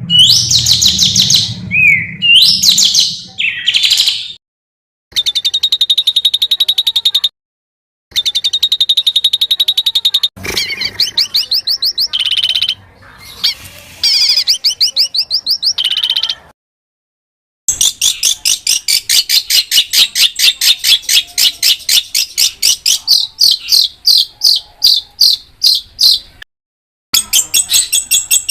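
A songbird singing rolling, rapid trills made of fast repeated notes, mixed with quick rising and falling whistles. The song comes in phrases cut by short silent gaps, and the longest trill runs about eight seconds in the second half.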